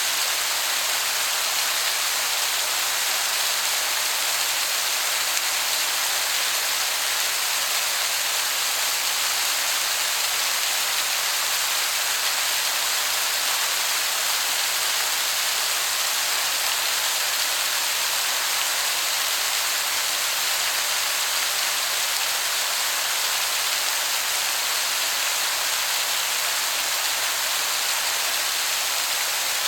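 Waterfall: a steady, even rush of falling water that sounds like heavy rain, with no breaks or changes.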